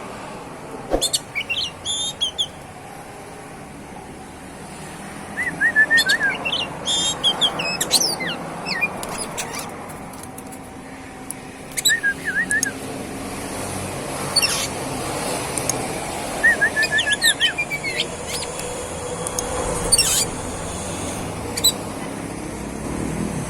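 Oriental magpie-robin (kacer) singing in repeated bursts of quick trilled notes and fast, high sweeping whistles, over a steady low hum.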